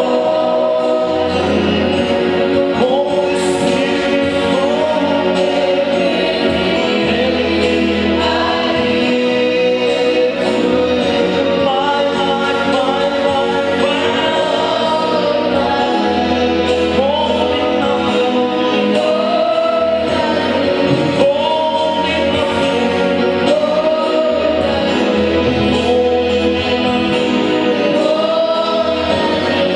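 A choir singing a gospel worship song together in long, held and gliding notes, over low sustained bass notes that change every couple of seconds.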